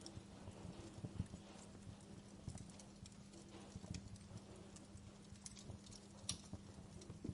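Wood fire burning in a fireplace: faint, irregular crackles and pops over a low steady hum, with a sharper pop about six seconds in.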